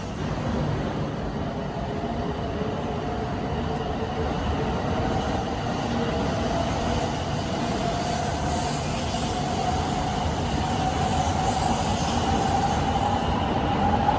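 Shinkansen train running: a steady rumble with a whine that slowly rises in pitch.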